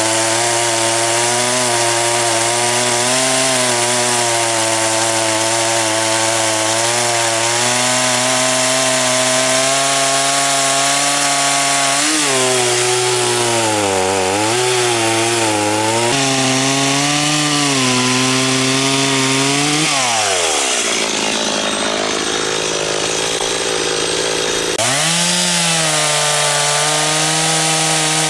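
Two-stroke chainsaw cutting through firewood, its engine pitch sagging and recovering under the load of the cut. About two-thirds of the way through, the engine pitch drops sharply and a rougher, unpitched stretch follows. Near the end the saw runs up again and holds a steady higher pitch.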